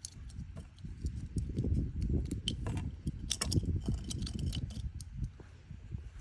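Hands-on work noise during an oil change: irregular low thumps and rubbing with scattered light clicks and taps, busiest in the middle.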